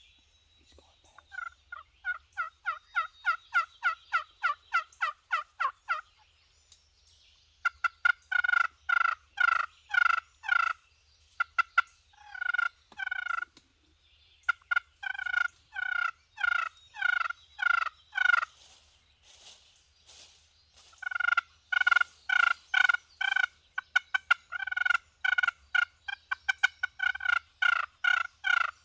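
Wild turkey yelping in long runs of evenly spaced notes, about four a second, with short pauses between runs.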